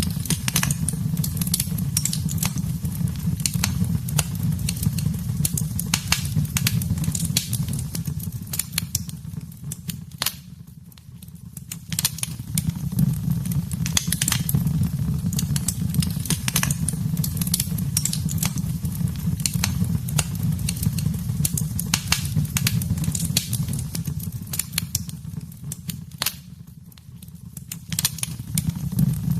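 Wood fire in a fireplace crackling: many irregular sharp pops and snaps over a steady low rumble of flame. The sound dips briefly twice, about eleven seconds in and again near the end.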